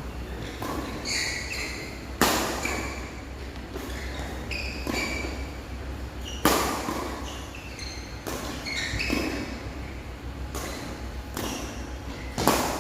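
Badminton rally: rackets striking the shuttlecock with sharp smacks, the loudest about two, six and twelve seconds in, with lighter hits between and short high squeaks of shoes on the court floor, echoing in a large hall.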